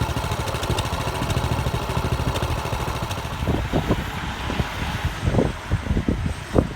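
An engine running steadily with a low rumble. From about halfway in, a few knocks and clunks sound over it.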